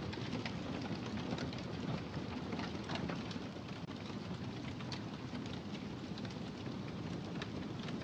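Wood fire burning in a fireplace: a steady low rumble and hiss with frequent small crackles and pops.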